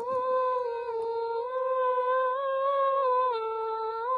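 A high voice humming a slow tune in long held notes that step gently up and down in pitch.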